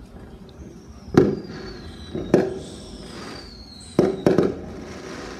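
Aerial fireworks bursting: four sharp bangs, the last two in quick succession, with a faint high whistle slowly falling in pitch beneath them.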